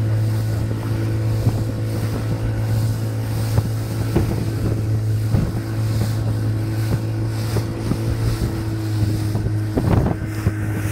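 Evinrude 40 H.O. outboard motor running at a steady speed under way, with wind noise on the microphone and a few knocks of the hull against the water.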